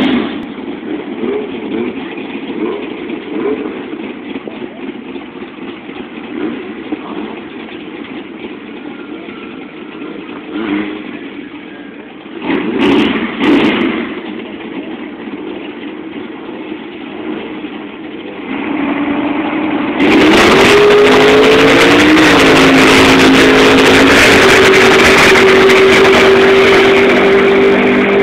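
Muscle car engine running, then revved hard about two-thirds of the way in: the pitch climbs and then holds steady at high revs, much louder than before.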